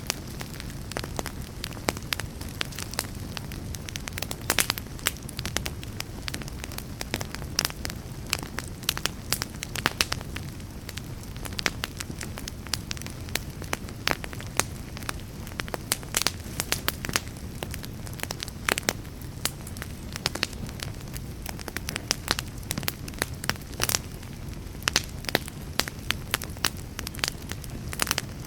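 Wood fire crackling, with many sharp irregular pops and snaps over a low steady rumble.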